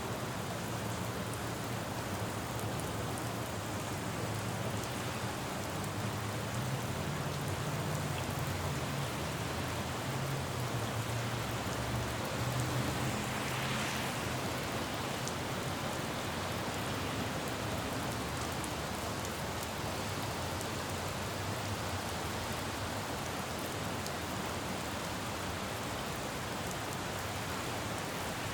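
Steady rain falling on a road, with a vehicle passing on the wet road that builds as a low rumble and is loudest about halfway through.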